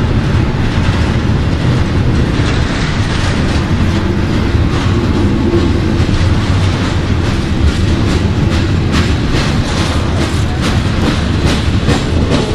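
Double-stack intermodal well cars rolling past: a steady, loud rumble of steel wheels on rail. In the later seconds it breaks into a run of sharp clickety-clacks.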